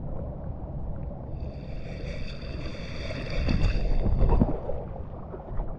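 Rushing, splashing water with wind on the microphone. A thin high tone sounds through the middle. Heavier splashes come from about three and a half to four and a half seconds in.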